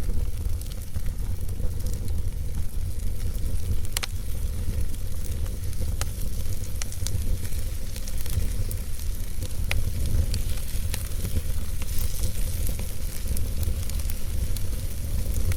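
Logs burning in a fireplace: a steady low rumble and hiss of the fire, with scattered sharp crackles and pops.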